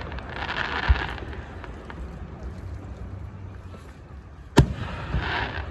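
Fireworks going off: a dull bang about a second in and a louder, sharper bang near the end, with spells of crackling hiss around each.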